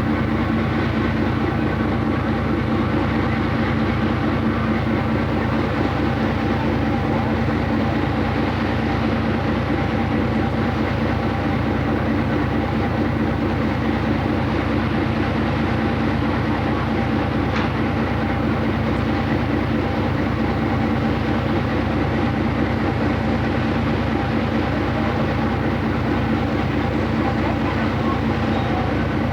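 Motor ship's engine running with a steady, even drone.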